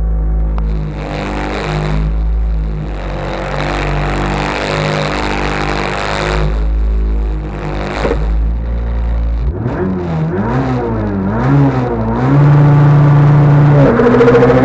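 Rally car engine heard from inside the cabin, idling at the stage start with a steady note. About ten seconds in it is blipped up and down several times, then held at high revs for the launch. Near the end it gets louder and the revs jump as the car pulls away.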